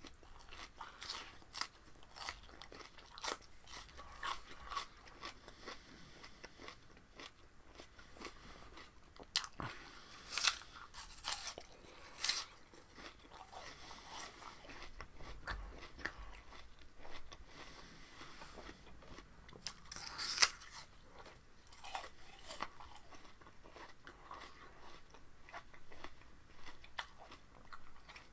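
A person biting and chewing raw spinach stalks: irregular wet crunches throughout, with a few louder bites, the loudest about two-thirds of the way through.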